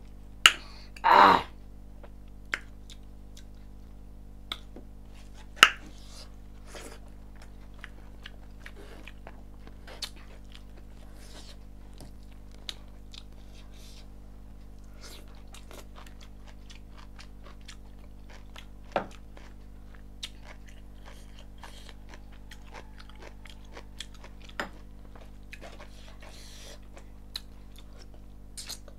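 Close-up mouth sounds of a person eating rice, chicken curry and greens by hand: chewing with scattered wet smacks and clicks, over a steady low hum. About a second in there is one louder, longer mouth sound.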